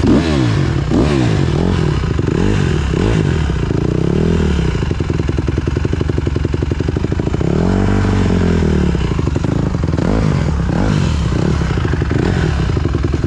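Honda CRF150R dirt bike's single-cylinder four-stroke engine being ridden hard on a trail, revving up and dropping back over and over as the throttle is worked, with some rattle from the bike.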